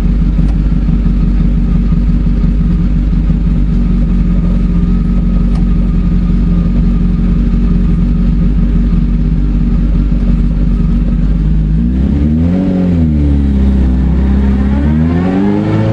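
Race-prepared Fiat 500's air-cooled two-cylinder engine, heard from inside the cabin, idling steadily, then revved up and back down about twelve seconds in, with the revs rising again near the end.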